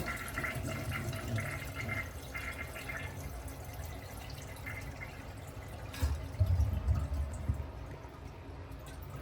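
Water running and trickling, with a few dull knocks of handling about six seconds in.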